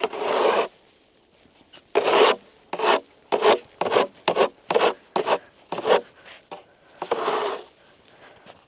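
Snow shovel scraping snow off ice in a series of short strokes: a fast run of them in the middle at about two a second, and a longer scrape near the end.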